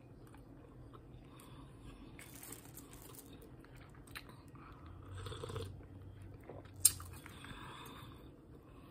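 A person chewing food close to the microphone, with faint mouth noises and soft crunches. A single sharp click comes about seven seconds in.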